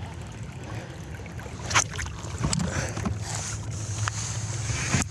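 Kayak on the water with a steady low rumble of wind and water noise, and a sharp knock a little under two seconds in, followed by a few lighter clicks.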